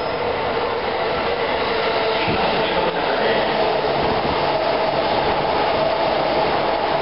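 Keihin-Tohoku line electric commuter train pulling in alongside the platform, its running noise filling the air. A steady whine joins in about three seconds in.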